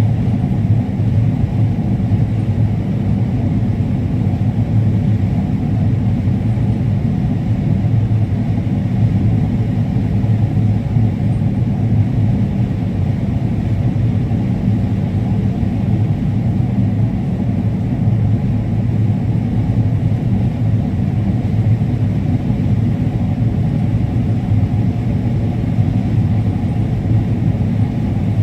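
Combine harvester running with a steady low drone.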